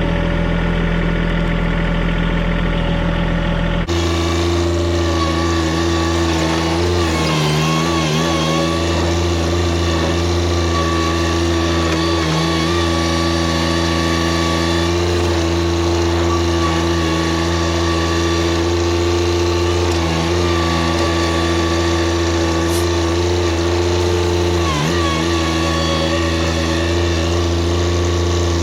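Compact tractor's diesel engine running steadily, its pitch dipping briefly several times as it takes load. The sound changes abruptly about four seconds in.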